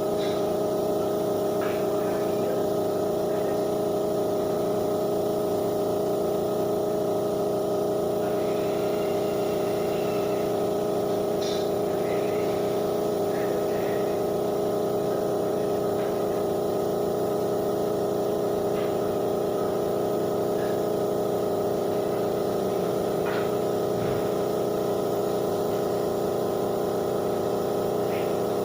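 An electric motor in a paint workshop running steadily with an unchanging hum, a few faint clicks over it.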